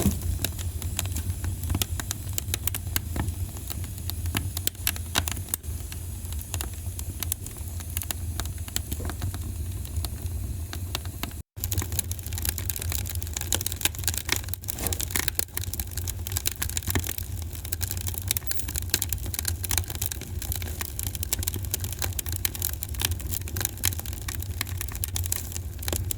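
Wood fire crackling, with frequent irregular sharp pops and snaps over a steady low rumble. The sound cuts out for an instant about halfway through.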